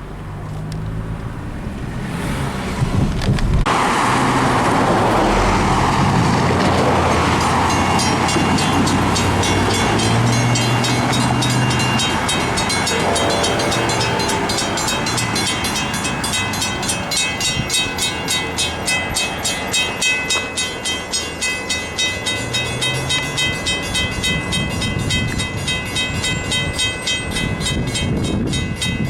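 Long Island Rail Road train passing through a grade crossing: a loud rumble and rush of the train going by builds a few seconds in and eases after about twelve seconds, with a running engine underneath. A crossing warning bell rings in an even beat from about seven seconds on.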